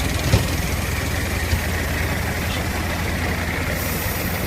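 Peterbilt 387 dump truck's CAT C15 diesel engine idling steadily, with one sharp click a fraction of a second in.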